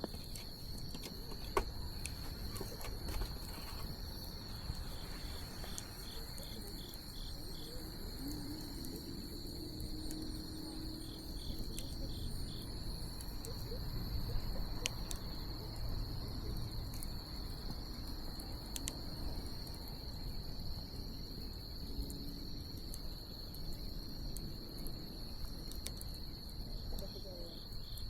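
Wood bonfire crackling with scattered small pops and one sharper pop about a second and a half in, over a low steady rush. Behind it runs a continuous high-pitched chorus of crickets.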